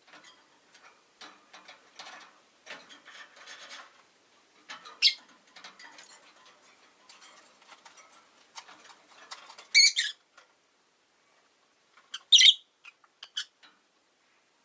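Rosy-faced lovebirds (Agapornis roseicollis) calling: short, shrill chirps about five seconds in, a louder burst near ten seconds, and two more near the end, over soft clicking and scratching through the first two-thirds.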